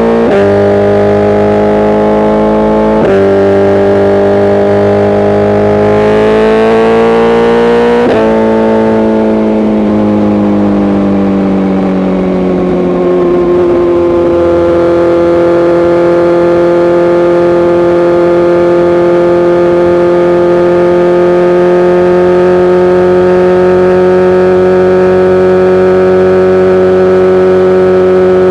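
BMW S1000RR inline-four sport bike accelerating hard with quick upshifts, the revs climbing then dropping sharply as it shifts at the start, about 3 s in and about 8 s in. The revs then fall off gradually as it eases off, and from about 14 s in it holds a steady cruise.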